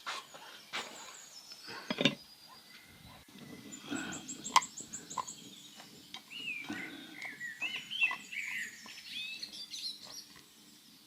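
Birds chirping in short, curving calls through the middle and latter part, over scattered sharp knocks and clicks.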